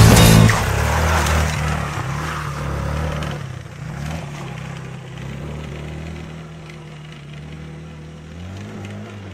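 Suzuki RV125 Van Van's single-cylinder four-stroke engine running steadily and growing fainter, with a short rise in revs near the end.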